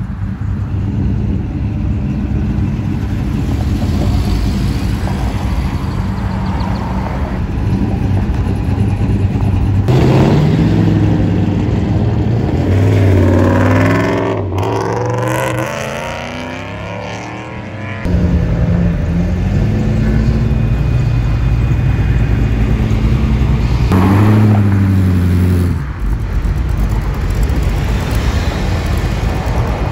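Engines of several show cars, muscle cars among them, rumbling and then revving with rising and falling pitch as they pull away one after another.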